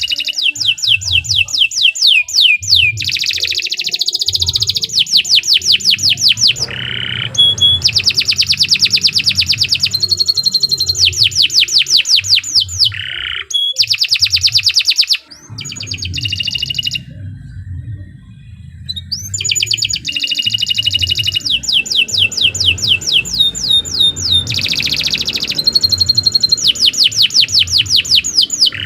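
Domestic canary singing a long, chattering song made of fast trills: runs of rapidly repeated high notes, phrase after phrase, with a brief break about halfway through.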